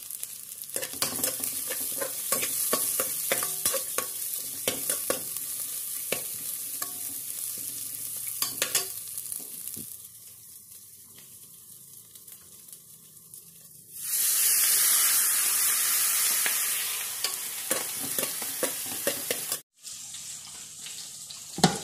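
Food sizzling as it fries in hot oil, with the scrape and tap of a spoon stirring the pan. After a quieter stretch, a loud, steady frying hiss starts about two-thirds of the way in and cuts off suddenly near the end.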